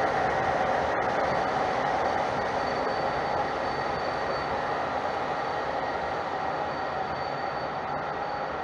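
Passenger train running past, a steady rumble of wheels on rail with a faint high whine, slowly getting quieter.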